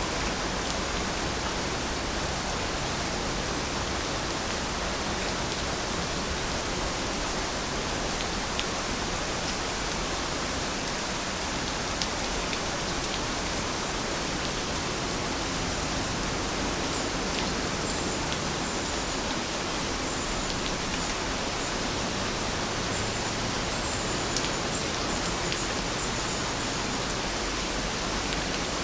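Steady rainfall, an even hiss with occasional single drop ticks. A few faint, short, high chirps come in the second half.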